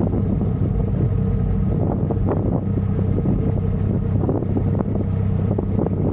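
Triumph Rocket 3 R's 2,458 cc inline-three engine running steadily at a constant road speed, heard from a camera on the rear swingarm, with road and wind noise mixed in.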